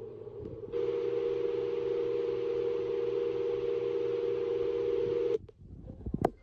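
Dreamegg Pocket Sleep 1 mini white noise machine playing a steady hiss with a hum through its small speaker. The sound switches on sharply about a second in and cuts off abruptly near the end, followed by a couple of sharp clicks.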